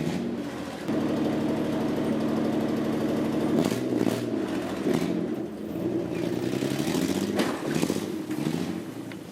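Nissan Pathfinder's engine running under load while towing, holding steady revs and then rising and falling in pitch twice, with a few short knocks.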